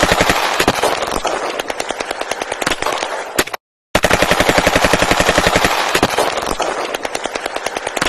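Rapid automatic gunfire at about ten shots a second. The burst cuts out for a moment about three and a half seconds in, then the same burst starts over.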